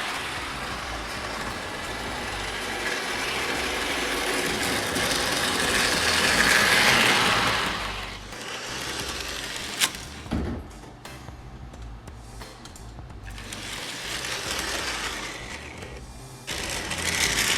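Small electric motor and gears of a battery-powered toy train whirring as it runs along plastic track, growing louder to a peak about seven seconds in and then fading, with a sharp click near ten seconds.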